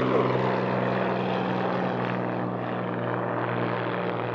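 Lancair Legacy single-engine propeller plane's engine running with a steady, even hum, slowly fading.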